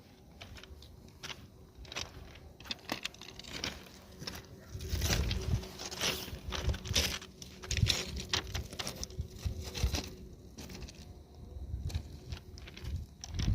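Irregular small clicks and crackles with occasional dull thumps, like handling or movement noise, over a faint steady hum.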